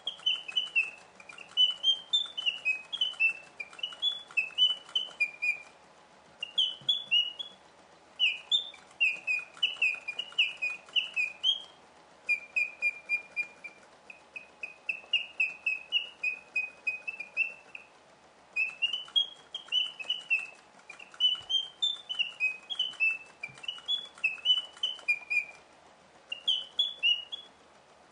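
Two mechanical singing birds of a 1950s German Eschle automaton chirping and whistling to each other, a bellows-driven whistle warbling in quick rising and falling notes. They sing in phrases of a few seconds broken by short pauses, over a faint ticking of the mechanism.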